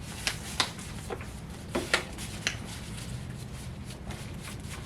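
Short clicks and taps from eating and handling food and its containers at a table, about five in the first two and a half seconds, then only low room noise.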